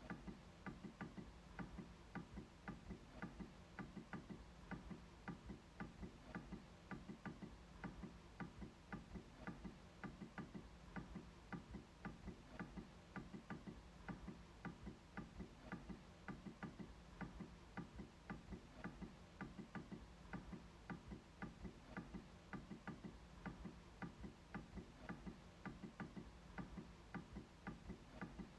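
MacBook trackpad being clicked repeatedly: faint, even clicks at about two to three a second.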